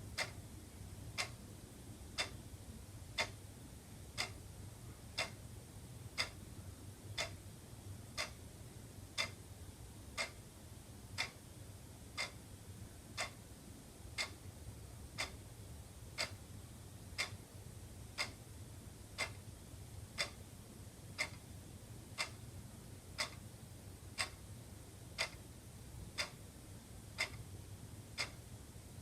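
Wall clock ticking steadily, one sharp tick a second, over a faint low hum.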